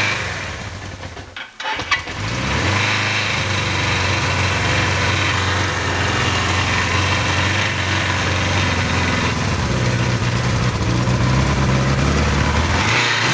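Suzuki GSX 750 S Katana's air-cooled inline-four on its original exhaust falters and sags in the first second and a half, then catches about two seconds in and settles into a steady idle. The idle picks up a little near the end.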